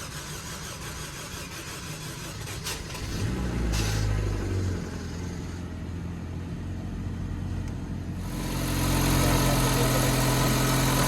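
Car engine running, with a brief rise about three to four seconds in; about eight seconds in it picks up to a louder, steady idle hum.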